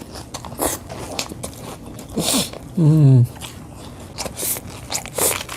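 A person eating: biting and chewing food, with a run of small crunches and clicks. About three seconds in comes a short hum of the voice, falling in pitch.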